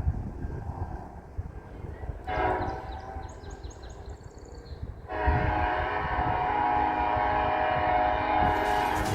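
Diesel freight locomotive's air horn sounding over a low rumble: a first blast a couple of seconds in, then a second, louder and steadier blast held from about halfway on.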